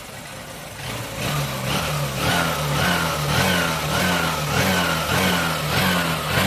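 Honda CB Shine's freshly rebuilt single-cylinder engine idling, then revved in quick, even throttle blips, a little under two a second, starting about a second in. The engine has just been rebuilt with the crank, bearing and exhaust valve faults fixed.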